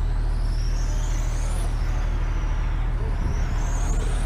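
Racing motorcycles on the circuit, engine pitch climbing twice as they accelerate, over a steady low hum.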